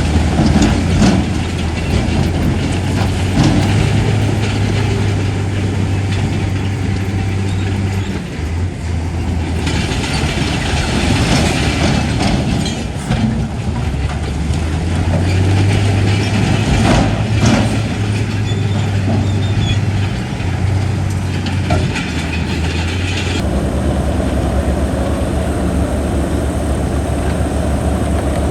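Bulldozer's diesel engine running under load, its note stepping up and down, with scattered clanks and knocks from the tracks and rock. The sound changes abruptly about 23 seconds in.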